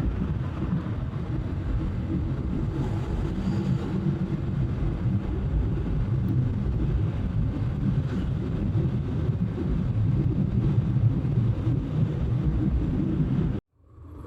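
Wind rushing over a bike-mounted microphone, with a Bajaj Pulsar NS200 motorcycle's single-cylinder engine running as the bike cruises. The sound cuts out abruptly near the end.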